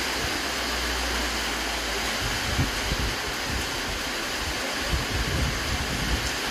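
Steady hiss of light rain falling, with wind rumbling and gusting on the microphone.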